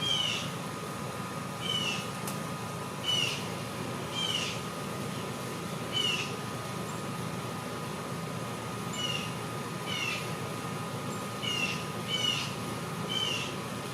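A bird giving a short mewing call over and over, about once every second or so, over a steady low background hum.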